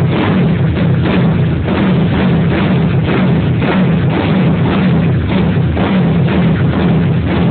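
Honda CG motorcycle's single-cylinder engine, bored out to 263 cc, running loudly and rumbling, with a rapid, uneven train of thumps from the exhaust.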